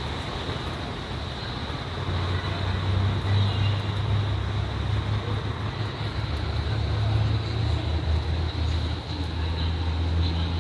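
Road traffic: a steady low rumble of passing vehicles that swells about two seconds in, over a constant hiss.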